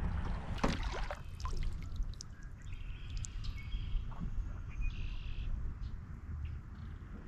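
Canoe paddling on open water: a few paddle splashes and drips early on over a steady low wind rumble on the microphone, with birds calling faintly in the middle.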